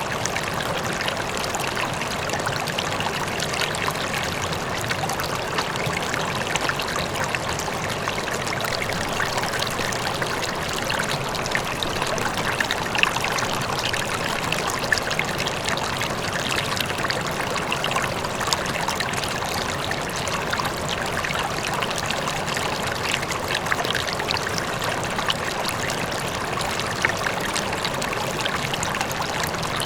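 River water flowing steadily over rocks, a constant rushing and babbling with small splashes here and there, with the faint rush of a distant waterfall underneath.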